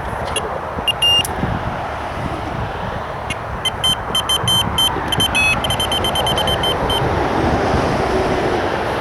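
Steady road traffic noise, with an electronic carp bite alarm sounding in irregular runs of short high beeps that stop about seven seconds in.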